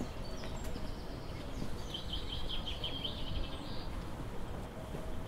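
A bird chirping in a quick run of short high notes about two seconds in, over a steady low background rumble.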